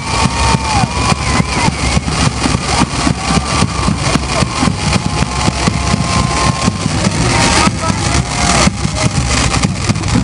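Drums beating a fast, steady rhythm of about four to five strokes a second, with voices calling and whooping over them.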